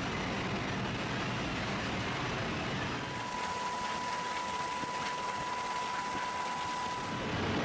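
Jet engine running steadily, a broad rushing noise. A thin steady whine joins it about three seconds in and stops shortly before the end.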